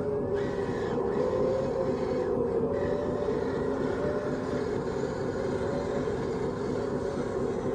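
Radio-controlled construction model running: a steady mechanical whine whose pitch wavers slightly up and down.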